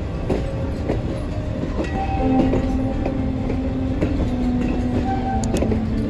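Heritage narrow-gauge train running on its rails: a steady low rumble with irregular clicks from the wheels over the rail joints. From about two seconds in, a few held tones sit over it.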